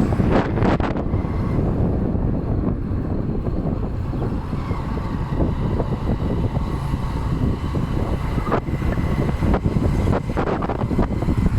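Ride on a boda boda motorcycle taxi: the motorcycle's engine runs under a steady rush of wind buffeting the microphone. A few short knocks come near the end.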